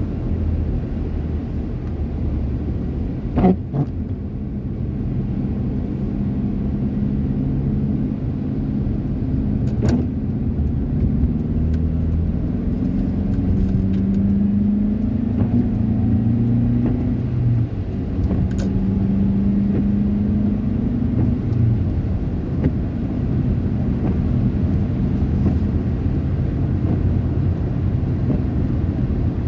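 Steady low rumble of a running motor vehicle, its engine tone rising and falling slightly, with a few sharp clicks.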